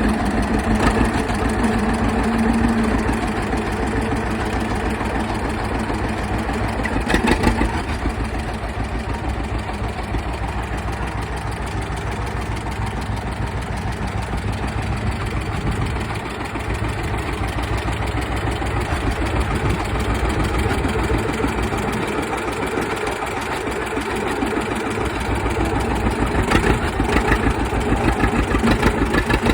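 John Deere two-cylinder tractor engine running steadily with a fast, even pulse, with a couple of brief sharp clanks along the way.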